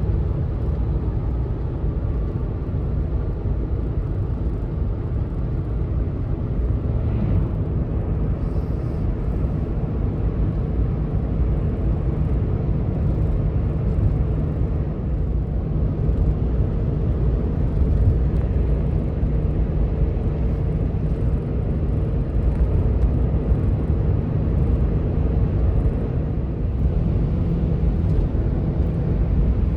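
Steady engine and road noise of a pickup truck carrying a truck camper while driving, a low, even rumble.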